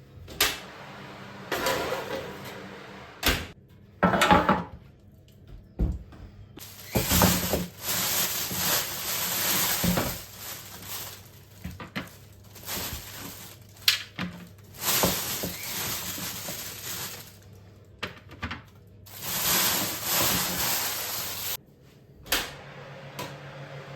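Handling noises: a few sharp knocks among several stretches of rustling noise, each a second or a few seconds long.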